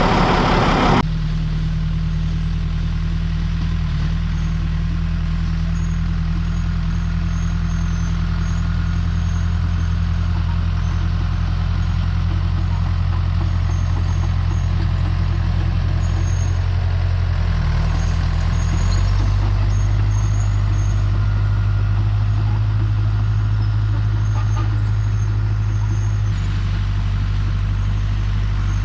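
Dump truck's engine running steadily under way, a low drone. The engine note changes about nineteen seconds in and again near the end.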